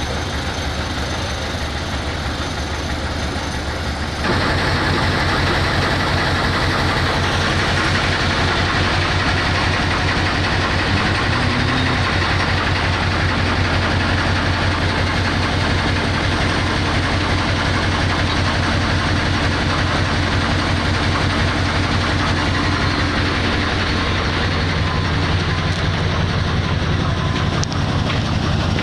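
Isuzu 8PC1 V8 diesel engine running steadily; about four seconds in it steps up and runs louder from then on.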